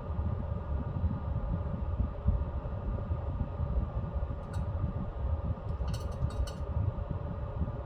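Pellet stove running, with a steady fan hum over the low rumble of its fire. One light tick comes about halfway, and a quick run of four clicks follows a moment later.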